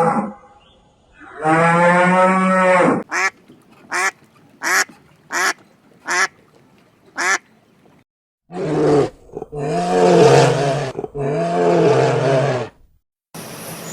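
A cow mooing in one long call, followed by a duck quacking six times at an even pace. After a short break come three more long, low lowing calls.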